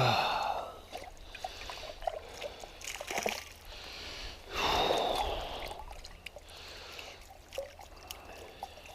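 Water trickling and splashing, with scattered small clicks and knocks and two louder splashy swells, one at the start and one about halfway through.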